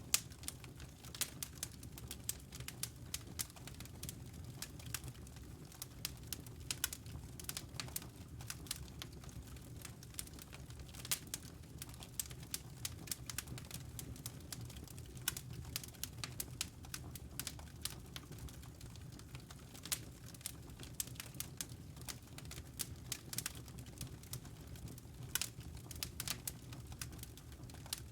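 Wood fire crackling in a fireplace: many irregular sharp pops and snaps over a low, steady rumble of the burning flames.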